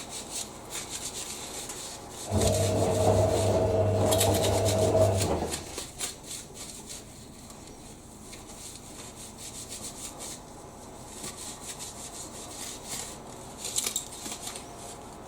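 Repeated rubbing and scrubbing strokes of a cleaning cloth on the dryer's panel. A louder steady hum comes in about two seconds in and stops about three seconds later.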